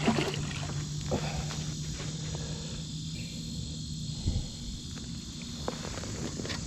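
Steady summer insect chorus of crickets, with a steady low hum that stops about four seconds in and a few short knocks.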